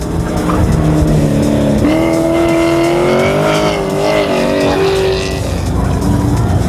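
Performance car engines revving hard through an autocross cone course, the engine pitch climbing and dropping with throttle and shifts. The sound switches abruptly from one car to another a couple of times.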